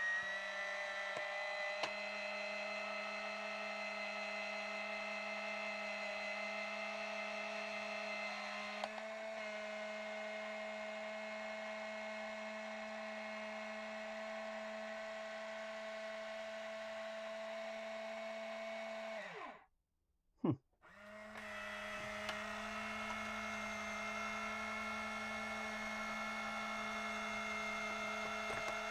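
Small electric motor and gear train of an Omnibot 2000's serving tray running under power with a steady whine. About nineteen seconds in it falls in pitch and stops, gives a brief blip, then starts up again and runs steadily.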